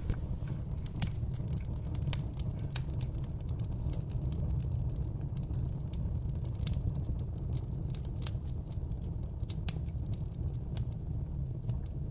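Fireplace fire crackling, with scattered sharp pops and snaps over a steady low rumble of the flames.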